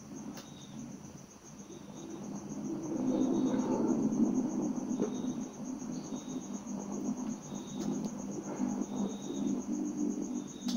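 Crickets chirping in a fast, even trill. A low droning hum comes in about two seconds in and swells a little after.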